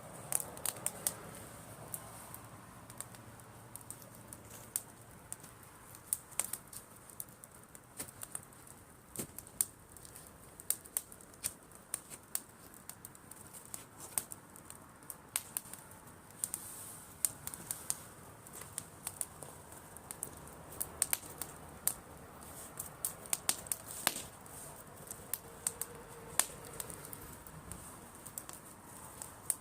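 Driftwood campfire crackling, with frequent sharp, irregular pops and snaps over a soft steady hiss.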